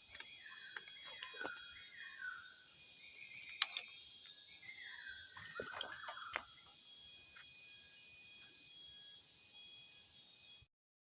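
Steady high-pitched drone of forest insects, with a bird's short falling calls and a couple of sharp clicks. The sound cuts off abruptly about a second before the end.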